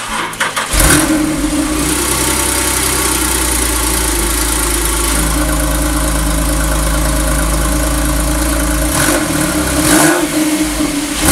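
Porsche 911 Carrera GTS's 3.8-litre flat-six with sports exhaust, heard at the tailpipes, starting up: a brief crank, catching just under a second in, then idling steadily and loudly. About nine seconds in it is revved in short blips.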